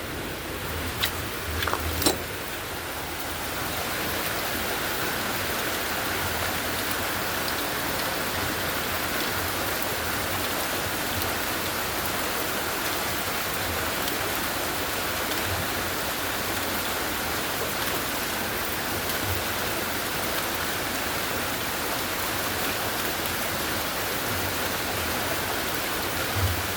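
Heavy rain falling steadily, with a few sharp drips or taps in the first couple of seconds.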